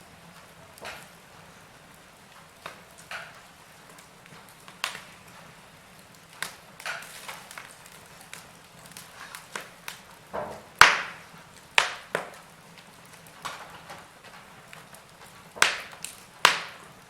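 Logs burning in a fireplace, crackling with irregular sharp pops and snaps. The loudest pop comes about eleven seconds in, with two more strong ones near the end.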